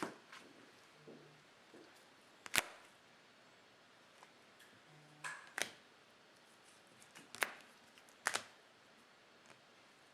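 A few sharp clicks and taps several seconds apart, the loudest about a third of the way in, with quiet room tone between them.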